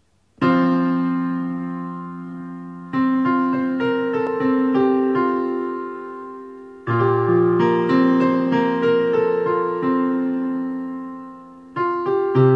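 Piano music: chords and melody notes struck and left to ring and fade, with a fresh phrase starting three more times after the first.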